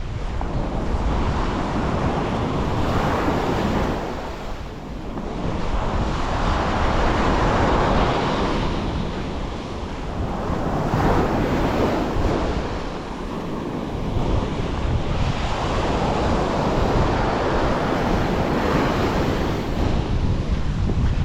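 Waves breaking and washing on a beach, the surf swelling and easing several times, with wind buffeting the microphone.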